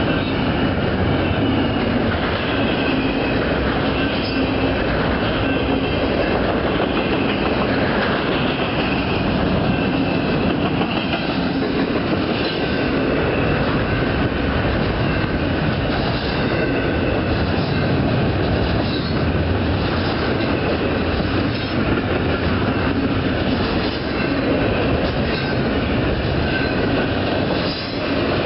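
Loaded doublestack container cars of a freight train rolling past: a steady, loud rumble and clatter of steel wheels on the rails, with a thin high wheel squeal now and then.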